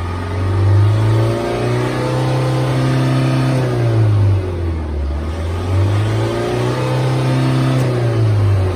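Isuzu Elf truck engine revved up from idle twice, each rev held for about three seconds before dropping back toward idle.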